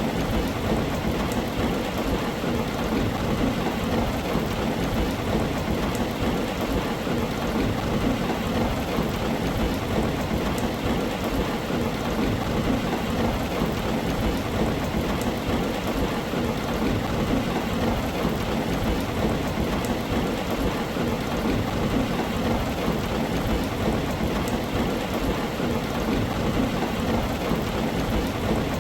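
Steady heavy rain falling on a tin roof, an even, unbroken patter with no pauses.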